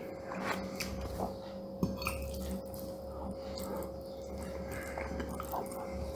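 Close-up chewing of saffron risotto, with a few light clicks of a metal fork against the plate, the sharpest a little under two seconds in. A steady hum runs underneath.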